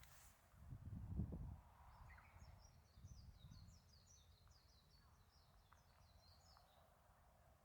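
Faint birdsong outdoors: a quick run of high chirping notes from about two seconds in until near the end, after a brief low rumble about a second in.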